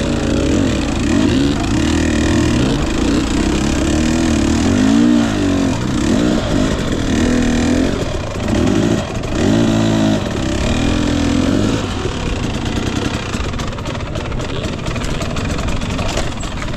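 Husqvarna TE250i two-stroke dirt bike engine revving up and down under changing throttle, its pitch rising and falling several times through the middle, then running lower and steadier with a run of light clicks near the end.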